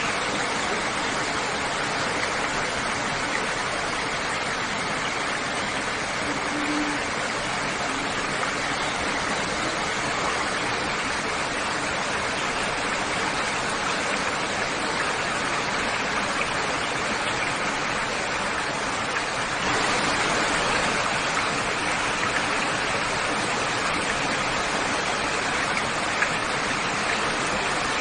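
Steady rush of running water, an even hiss without breaks, growing a little louder about twenty seconds in.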